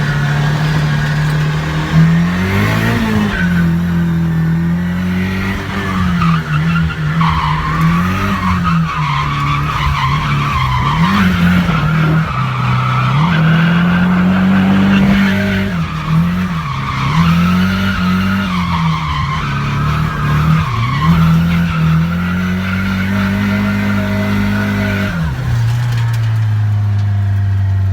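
Nissan S13's turbocharged SR20DET four-cylinder engine revving up and down repeatedly during a drift run, with tires squealing over it. About 25 seconds in the revs fall to a low steady note.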